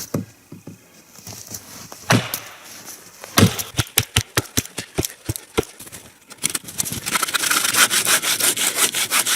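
A run of about eight sharp wooden knocks, roughly three a second, as the notch wedge is cleared from the trunk; then, about two-thirds in, a bow saw cutting through the dry conifer trunk with fast, even strokes, the felling cut that drops the tree.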